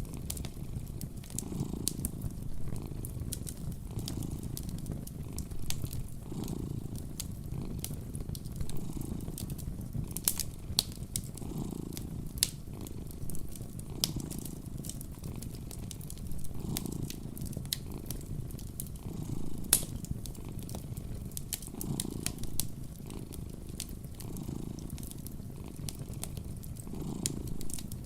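A cat purring in slow swells that rise and fall with each breath, with sharp crackles from a fireplace scattered over it.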